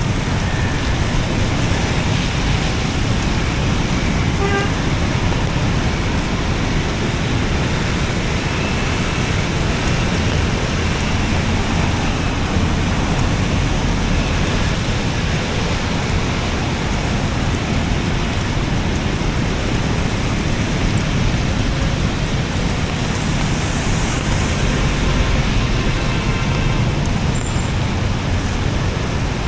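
Steady din of road traffic: a dense, even wash of noise, heaviest in the low end, with no single vehicle standing out.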